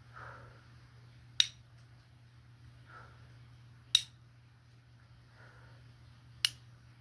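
Three sharp snaps about two and a half seconds apart, each coming a moment after a soft swish.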